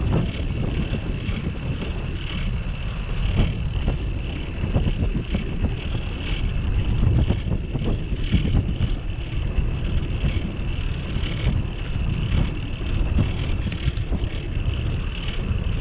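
Wind buffeting the microphone of a bike-mounted camera, over the rumble of bicycle tyres rolling on asphalt, with a few small knocks from the bike.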